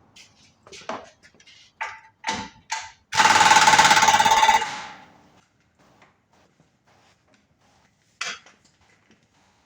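Air impact wrench rattling for about a second and a half, about three seconds in, as it drives a nylock nut onto a steering joint's tapered stud. A few short clinks and knocks of tools come before it.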